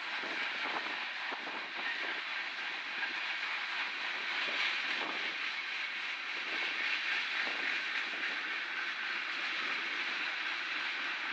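Freight train rolling past: steady rail and wheel noise, with a few sharp clicks in the first two seconds.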